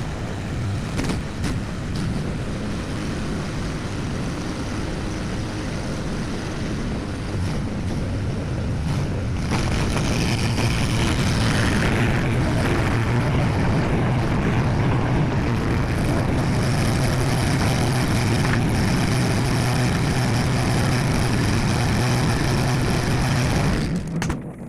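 Skid steer loader engine running steadily, stepping up louder about ten seconds in.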